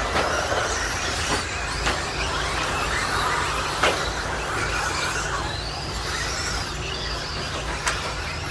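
Electric RC stadium trucks with 13.5-turn brushless motors racing: several overlapping motor whines rising and falling as the trucks accelerate and brake. A few sharp clacks, about one every two seconds, cut through.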